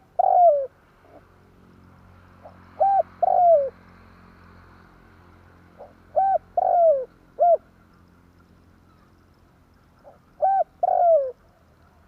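Spotted dove cooing, a repeated lure call: about four phrases a few seconds apart. Each is a short note followed by a longer coo that falls in pitch, sometimes with a final short note.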